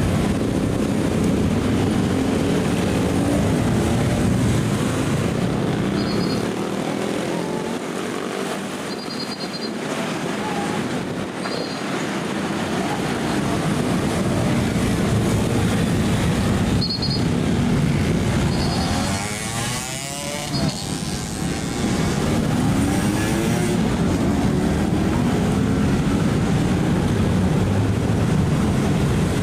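Engines of heavy trucks and other road traffic running as vehicles pass close by, with one passing especially close a little past the middle. Short high double beeps sound several times.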